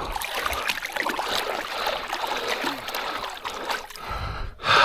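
Water splashing and trickling close by, a dense patter of small splashes, with a louder rush of water near the end.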